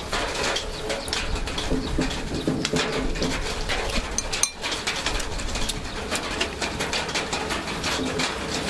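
A bird cooing in low, repeated notes over a steady outdoor background, with frequent small clicks from eating close by.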